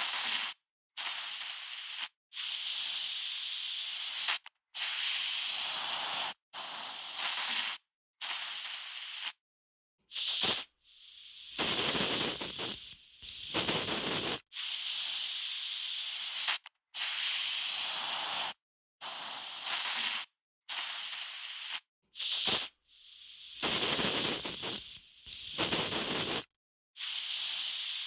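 Aerosol spray can spraying in about a dozen separate hissing bursts, each half a second to two seconds long, with short silent gaps between them; a couple of the longer bursts carry a lower, rougher sputter.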